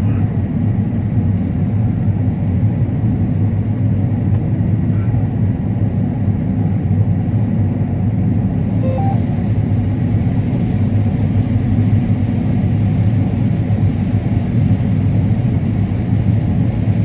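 Combine harvester running steadily while cutting corn: a constant low drone of engine and threshing machinery.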